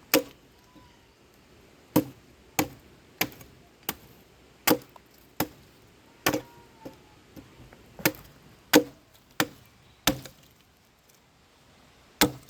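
Axe chopping wood: repeated sharp strikes into a log, about one every half second to second, with a pause near the end before one last blow.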